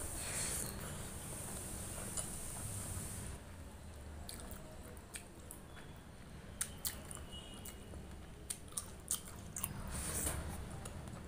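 Close-miked eating sounds of rice and curry eaten by hand: wet chewing and squishing, with scattered small clicks and lip smacks through the middle.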